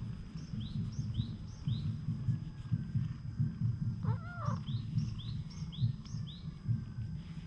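Small birds chirping: two quick runs of short, high, curving notes, one run near the start and one after the middle, with a single lower, arching call about four seconds in. Underneath, a low rumble pulses unevenly close to the microphone.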